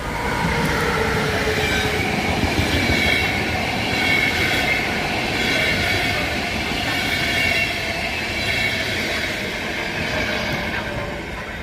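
Locomotive-hauled passenger train (IC Gedania behind locomotive X4E-803) moving along the platform: a rumbling run of wheels with high, wavering metallic squeals from the wheels and brakes, fading near the end.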